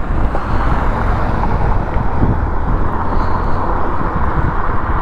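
Steady wind rush over a helmet-mounted camera, with tyre and road noise, from an electric fat bike ridden at speed.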